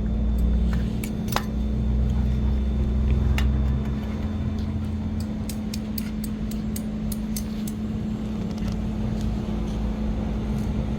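Fire catching in a wood- and pellet-burning camping stove with its air vent open, giving scattered sharp crackles over a steady low hum; a deep rumble underneath fades about five seconds in.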